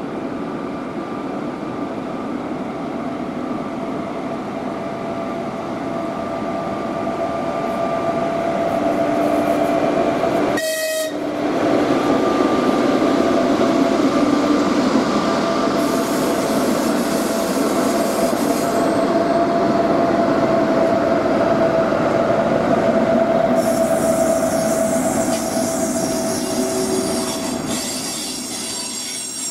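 Passenger train pulling into a station at low speed. The locomotive and coaches roll past with a steady rumble and whine that grows louder as they come close. A high squeal from the wheels sets in for stretches in the second half as the train slows, and the sound drops out briefly about ten seconds in.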